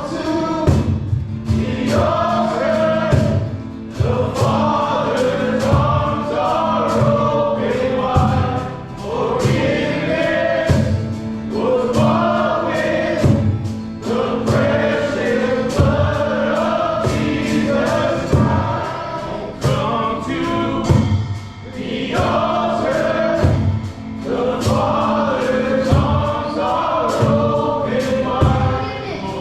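Live worship song: a group of voices singing together over a band with a steady drum beat.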